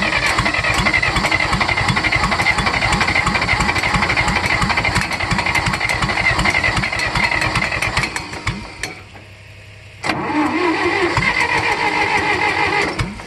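1964 John Deere 1010 tractor's gasoline engine being cranked over by its starter on a cold start, turning with a rapid even rhythm without catching, despite a shot of starting fluid. The cranking runs for about eight seconds and dies away, then after a short pause it cranks again for about three seconds.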